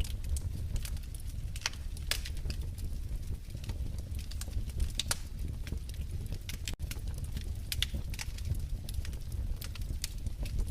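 Wood fire crackling in a fireplace: irregular sharp pops and snaps over a steady low rumble of the flames, cutting out for an instant about two-thirds of the way through.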